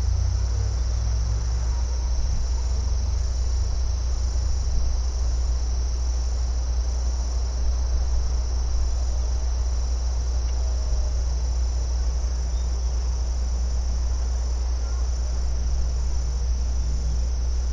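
Crickets trilling steadily in a continuous high chorus, over a steady low rumble.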